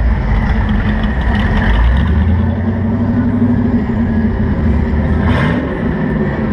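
Engine of a 1930s-style coupe hot rod rumbling loudly as the car rolls slowly past, its pitch dropping shortly after five seconds in as it moves away.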